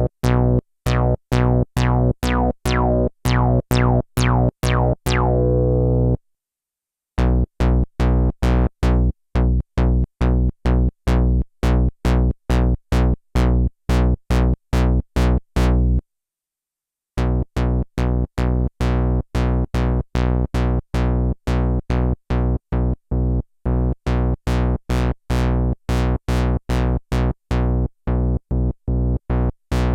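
Sequential analog synthesizer playing one low note over and over, short and detached, about three notes a second, rich in overtones. It stops for about a second twice before the pattern resumes.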